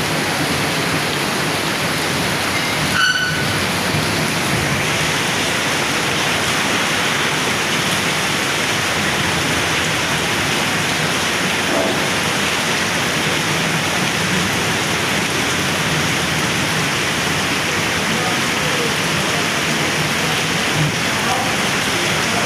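Heavy rain falling steadily, an even, continuous hiss of drops. A brief sharp sound stands out about three seconds in.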